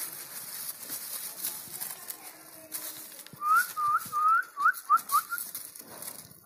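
A bird singing a run of about eight short rising whistled notes that quicken and shorten toward the end, starting about three and a half seconds in, over a faint outdoor hiss.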